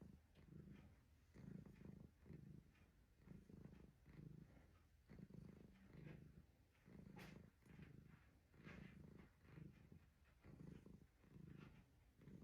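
Domestic cat purring steadily and quietly, the purr swelling and easing in a regular rhythm with each breath in and out.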